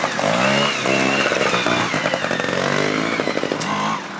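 Trials motorcycle engine revving, its pitch rising and falling several times as the throttle is blipped.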